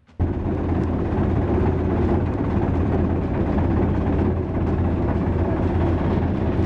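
Sightseeing boat's engine running steadily, a low, even drone that cuts in abruptly just after the start.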